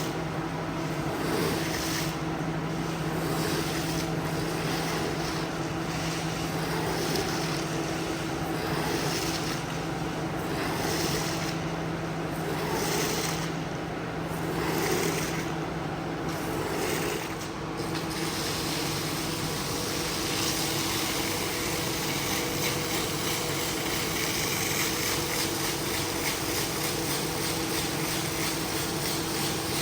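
A machine motor running steadily, with a constant hum under a rushing hiss; the hiss becomes smoother and more even about two-thirds of the way through.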